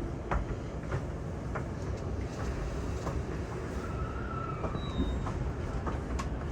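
Commuter train running between stations, heard from inside the carriage: a steady rumble of wheels on rails, with scattered sharp clicks and a faint thin whine about four seconds in.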